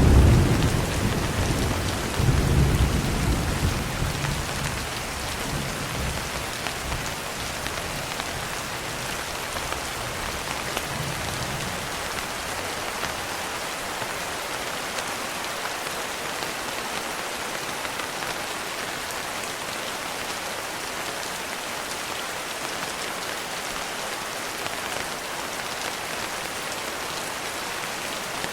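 Steady rain falling, an even hiss of drops on surfaces. Deep rolls of thunder rumble at the start and again about two seconds in, then die away, leaving the rain alone.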